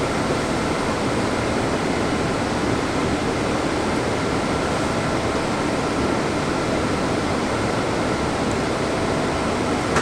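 Steady rushing noise on a Boeing 787 Dreamliner's flight deck during the climb: airflow and air-conditioning noise, with a faint steady high tone running through it.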